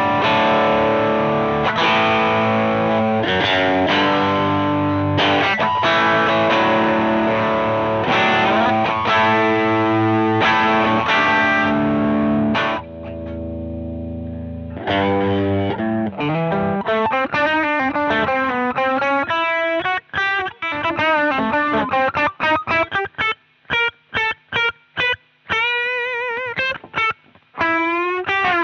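Electric guitar played through a Jeds Peds Onosecond high-gain overdrive pedal: heavy distorted chords for about twelve seconds, then a low chord left to ring, then a lead line of single notes with short choppy stops and a bent, wavering note near the end.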